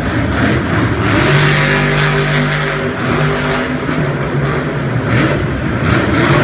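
Monster truck engine running loud and revving, its pitch rising and falling.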